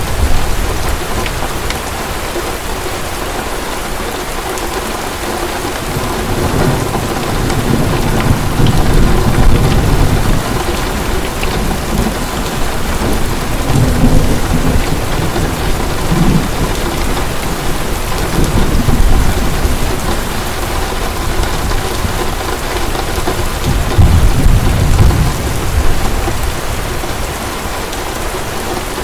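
Heavy rain falling steadily, with low rumbles of thunder swelling and fading about four times.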